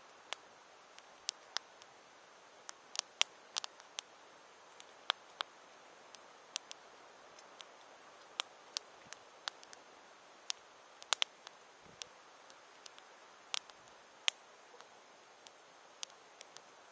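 Wood campfire crackling: irregular sharp pops and snaps, some in quick pairs, over a faint steady hiss.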